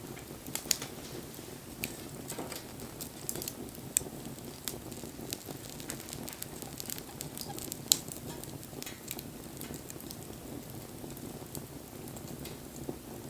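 Wood campfire burning, with a steady flutter of flame under scattered crackles and a few sharper pops, loudest about 4 and 8 seconds in.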